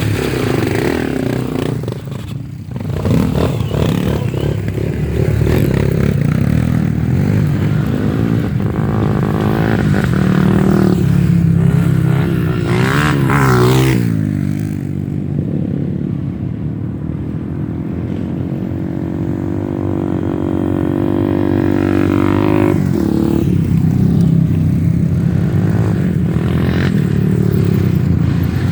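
Trail motorcycle engines running and revving, the pitch rising and falling as the throttle is worked, loudest in a run of quick revs about halfway through.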